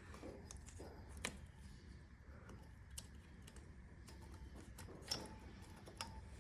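Faint, scattered light clicks and taps of metal parts and hand tools being handled, a few every couple of seconds. The loudest come about a second in and about five seconds in.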